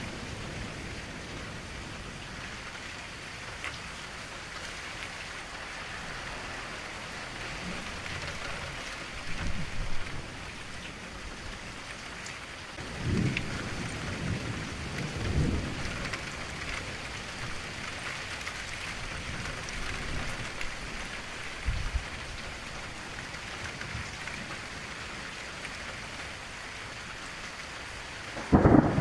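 Steady gentle rain falling against a window, with a few short low rumbles, the loudest right at the end.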